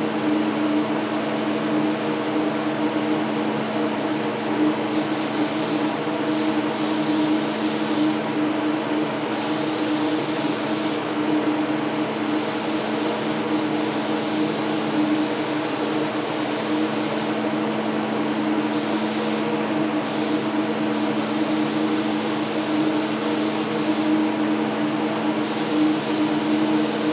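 Air-powered paint spray gun hissing in about ten on-off passes as it sprays a thin coat of primer through a small tip. Under it runs the steady hum of a paint exhaust fan.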